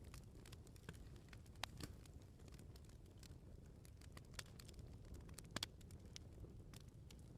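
Bonfire crackling: irregular sharp pops and snaps of burning firewood over a faint low rumble, with a louder double pop about five and a half seconds in.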